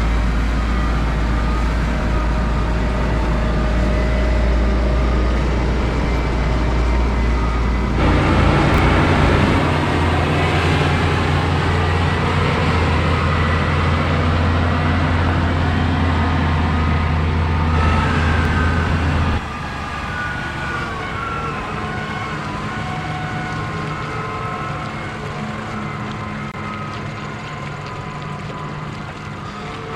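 Farm tractor engines running steadily under load, a deep drone with a thin high whine above it. The sound changes abruptly about eight seconds in and again past halfway.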